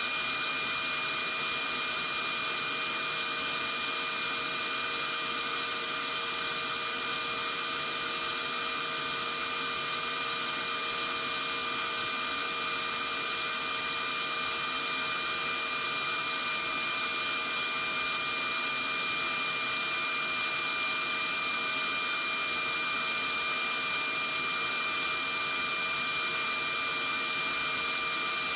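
Vacuum cleaner running steadily: an even rushing noise with a constant high motor whine, unchanging throughout.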